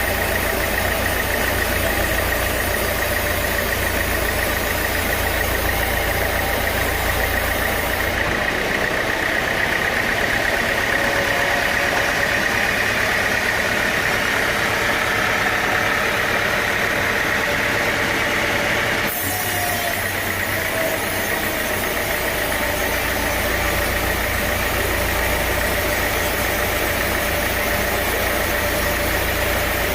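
Steady running drone of sawmill machinery, a machine running continuously at an even level. The deep low end drops out abruptly about eight seconds in and comes back around nineteen seconds.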